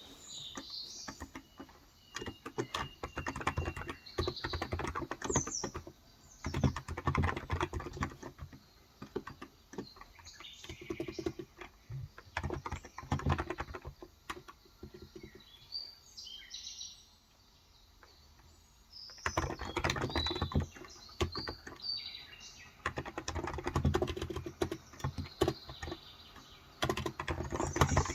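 Typing in bursts on a Cox Endeavor electrostatic capacitive (Topre-style) tenkeyless keyboard with 35 g switches, pausing for a couple of seconds a little past halfway. Birds chirp in the background.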